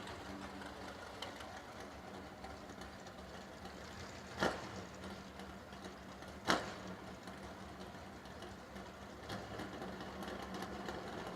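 Drag race cars' engines idling steadily behind the start line, with two sharp cracks about two seconds apart near the middle.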